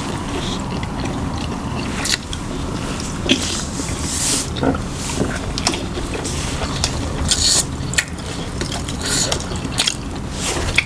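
Close-miked eating: chewing and crunching kimchi, with many irregular crisp crunches and clicks over a steady low background hum.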